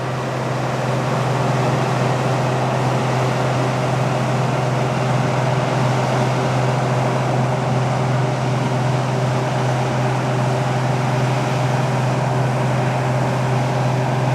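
Claas Dominator 68 combine harvester running steadily: a constant low engine hum under an even whirring noise from the machine.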